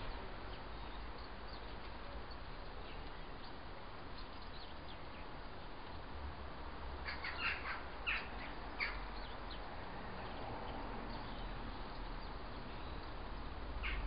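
Wild birds calling: faint scattered short high notes, then a burst of about five short high calls between seven and nine seconds in, over a low steady rumble.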